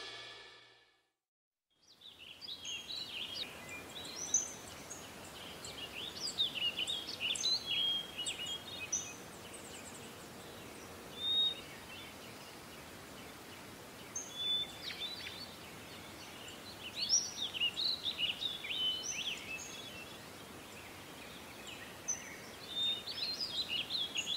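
Small birds chirping and twittering in irregular clusters over a faint steady hiss, starting about two seconds in after a moment of silence.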